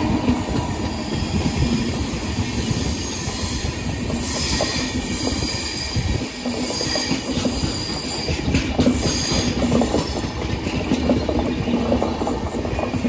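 Train cars rolling past, their wheels clattering over the rails with a steady run of knocks. A high wheel squeal comes and goes in the middle of the passage.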